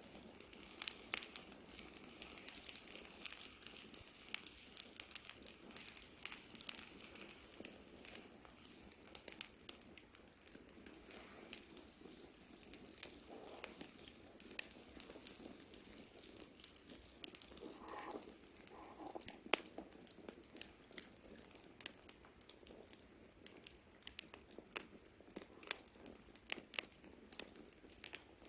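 Campfire burning: wood crackling with frequent sharp, irregular pops and snaps over a soft hiss.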